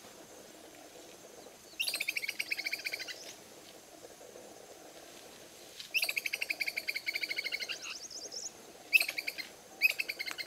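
A bird calling in four bursts of rapid trilled notes, the longest lasting about two and a half seconds, over a faint steady background hum.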